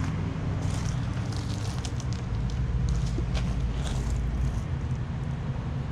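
1973 Climatrol (Fedders) central air conditioner condensing unit running, a steady low hum from the unit and its two fans. Scattered crackling ticks come and go over the first four and a half seconds.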